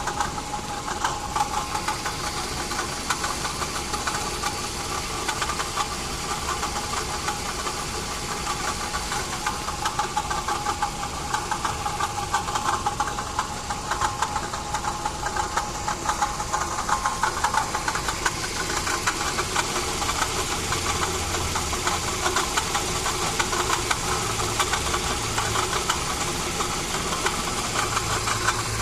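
Toyota 2AZ-FE 2.4-litre inline-four engine running steadily with a constant whine and a fast fine rattle, the noise of a faulty water pump.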